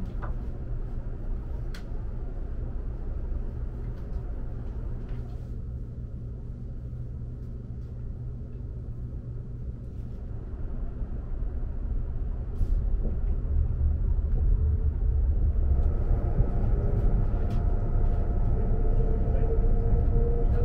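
Low rumble heard from inside a Eurostar high-speed train carriage as it pulls out of a station and gathers speed. The rumble grows louder about twelve seconds in, and a faint whine of several steady tones joins it near the end, with a few light clicks along the way.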